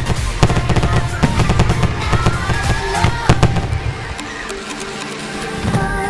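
Fireworks display: rapid bangs and crackling bursts in quick succession, with music playing underneath. The bangs die away about four seconds in, leaving the music.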